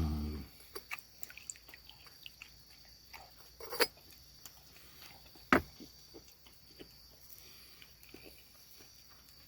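Quiet night ambience with insects chirring steadily at a high pitch, scattered faint small clicks, and two sharper clicks about four seconds and five and a half seconds in, the second the loudest.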